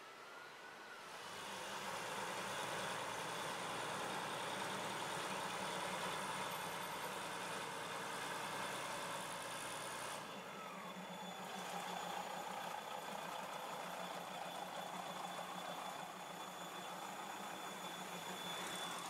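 Diesel passenger train's engine running steadily as the train moves along the station platform, starting about a second in.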